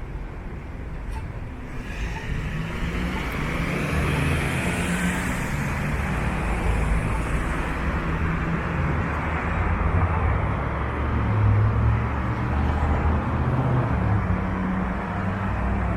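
Downtown road traffic: motor vehicle engine rumble and tyre noise, swelling about two seconds in and staying loud, with a brief high hiss partway through.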